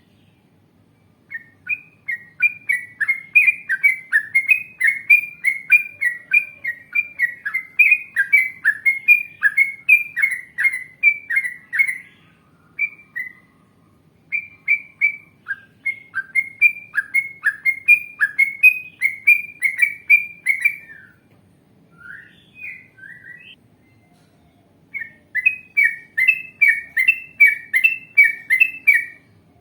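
Yellow-vented bulbul (trucukan) singing long runs of rapid, repeated notes, about two to three a second, in three long bursts with short pauses between them.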